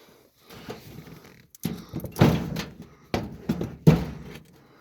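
A series of heavy thunks and knocks, loudest about two seconds in and again near four seconds, from the loose, unbolted wood and steel of a mock-up truck cab being bumped as someone moves about in it.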